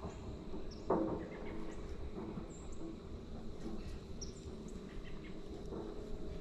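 Birds chirping here and there, short high calls over a steady low background noise, with one short knock about a second in.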